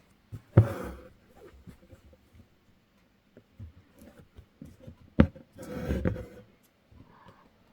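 Embroidery needle and thread being pulled through taut fabric while French knots are stitched: two sharp taps, each followed by a scratchy swish of thread drawn through the cloth, with small ticks between.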